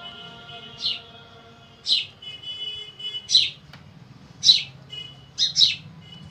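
Short, sharp bird chirps repeating about once a second, with a quick double chirp near the end, over a faint steady hum.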